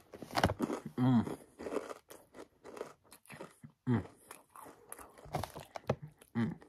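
Crunching and chewing of spicy rolled tortilla chips (Takis Nitro): many sharp crunches, with a few short hums in between.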